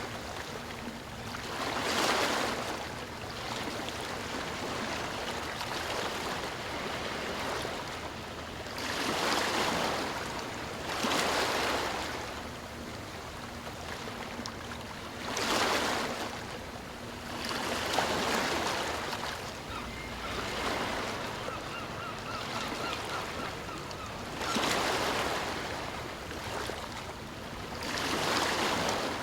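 Ocean waves breaking on a shore: a steady wash of surf with a louder surge every few seconds as each wave breaks.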